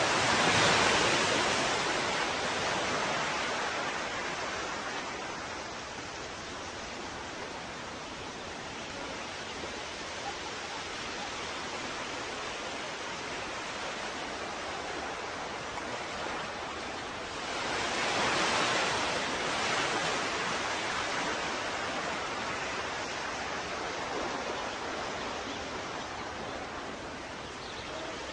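Ocean waves breaking and washing on shore: a steady hiss of surf, with two bigger waves swelling up, one right at the start and another about two-thirds of the way through.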